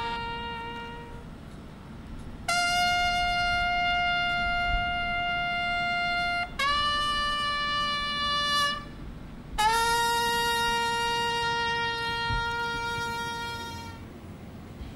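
A lone trumpet playing a slow tribute call of long held notes, each several seconds long with short breaks between, the last note fading out near the end.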